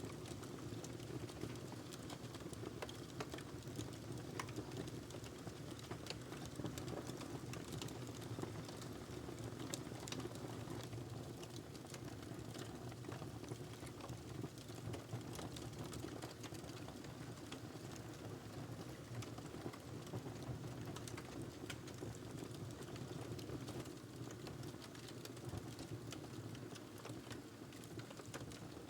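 Wood fire crackling, with irregular sharp pops and snaps over a steady low rush of flames.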